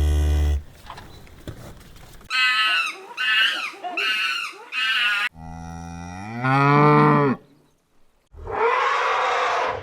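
A string of different animal calls, each cut off abruptly before the next: a deep low call at the start, a few high warbling calls, then a long low call that rises in pitch, and near the end a harsh, hissing call.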